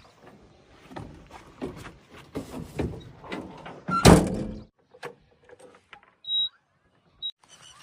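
A run of knocks and thuds, the loudest about four seconds in, followed by two short high beeps near the end.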